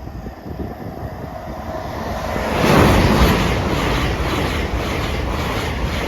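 High-speed passenger train passing through the level crossing: a rising rush of noise that surges about two and a half seconds in as the front of the train passes, then the steady sound of the coaches going by with an even, repeating beat from the wheels.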